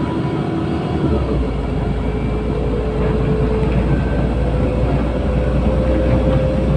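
LiAZ-5292 city bus in motion, heard from inside the cabin: engine and road rumble with a drivetrain whine that slowly rises in pitch as the bus picks up speed. The low rumble grows heavier about a second in.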